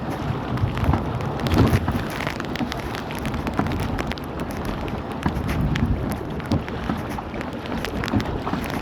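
Rain falling, with many small drops ticking, over a steady low rumble.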